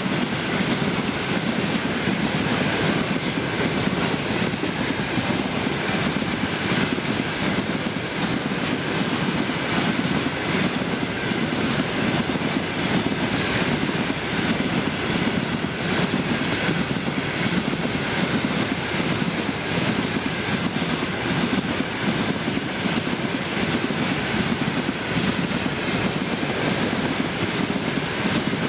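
Freight train of railway tank cars rolling past close by: a steady noise of steel wheels on rail, with occasional sharp clacks.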